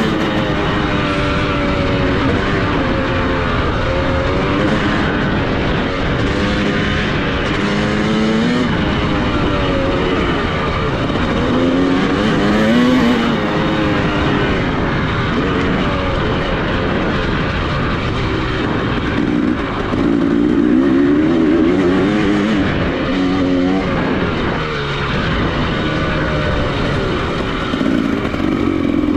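Dirt bike engine being ridden hard, its pitch repeatedly rising under acceleration and dropping at gear changes and throttle cuts, with steady wind and track noise underneath.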